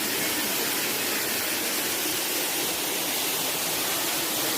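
Steady rush of falling water from a waterfall and stream.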